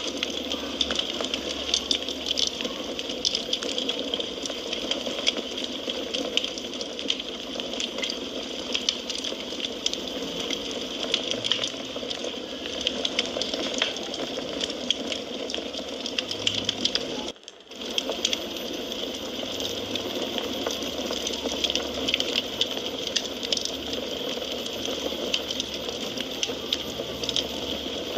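Wood fire burning in a fireplace, with a steady hiss and frequent small crackles and pops. The sound drops out for about half a second roughly two-thirds of the way through, then resumes.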